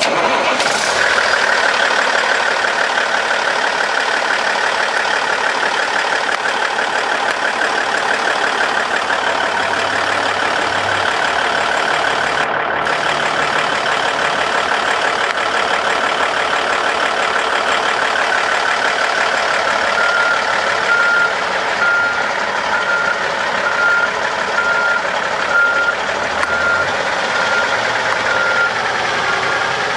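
1996 International dump truck running loud and steady, with its backup alarm beeping about once a second from about two-thirds of the way in as the truck reverses.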